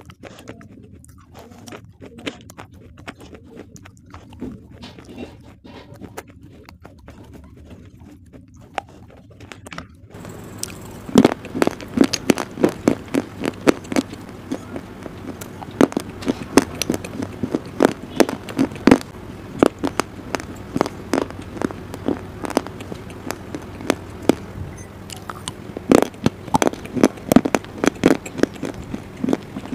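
Close-miked crunching and chewing as pieces of shale stone are bitten, soft and crisp. About ten seconds in it changes to louder, sharper crunches of pink Punjab biscuits being bitten and chewed, over a low steady hum.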